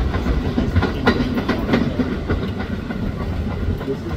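Staten Island Railway R44 electric train pulling away, its wheels clacking on the rails with a run of sharp clicks about a second in, the rumble easing off as it recedes.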